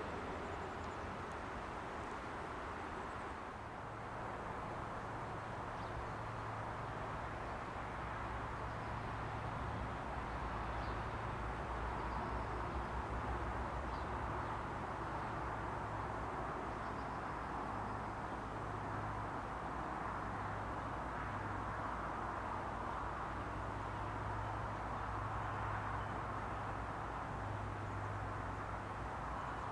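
Steady outdoor background rumble and hiss with a constant low hum, and a few faint high chirps.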